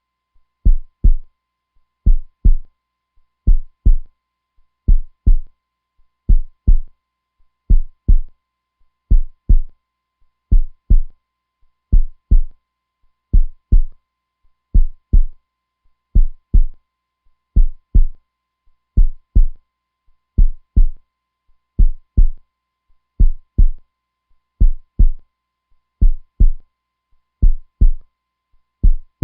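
Heartbeat sound: a steady lub-dub, a pair of low thumps repeating about every second and a half.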